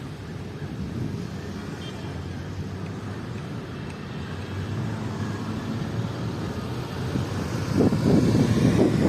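Wind rumbling against the microphone, a steady low noise that turns louder and gustier near the end.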